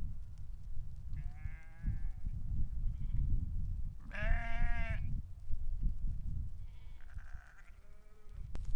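Sheep bleating three times in wavering calls, the middle bleat the loudest, over a low rumble.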